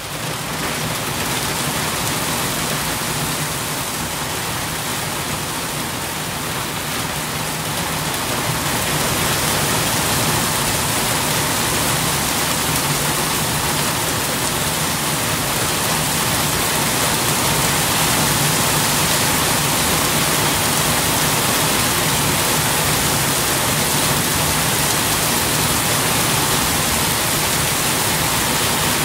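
Steady rain falling on wet paving stones, an even, dense patter of drops that grows a little louder about eight seconds in.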